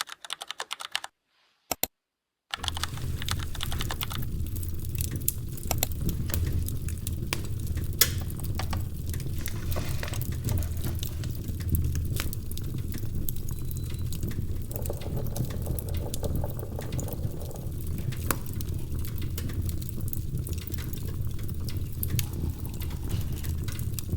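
Wood fire crackling in a fireplace: irregular sharp crackles and pops over a low, steady rumble. It starts about two and a half seconds in, after a brief silence.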